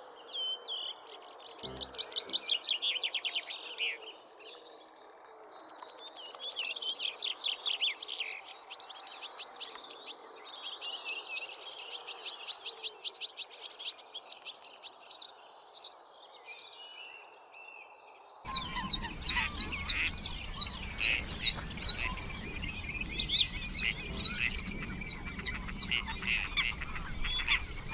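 Songbird singing in repeated bursts of rapid trills and twittering phrases. About two-thirds of the way through, an edit switches to a noisier recording: birds chirping over a steady noise.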